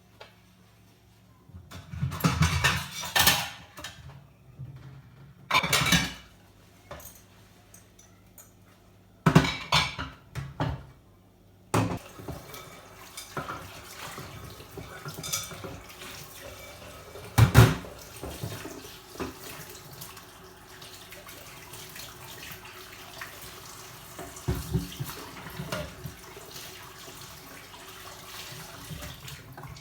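Dishes clattering in a kitchen sink, then a tap running steadily from about twelve seconds in, with a few knocks of dishes under the water.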